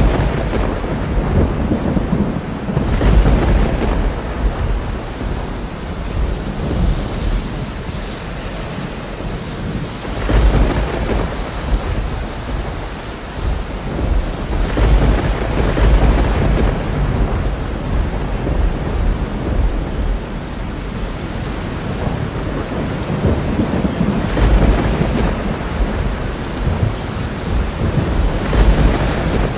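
Thunderstorm: steady heavy rain with several long rolls of thunder rumbling in and fading across the stretch.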